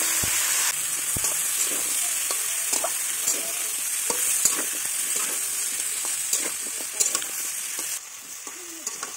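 Raw pumpkin cubes and pork sizzling loudly in hot oil in a metal kadai, stirred with a metal spatula that scrapes and knocks against the pan. The sizzling drops off sharply near the end.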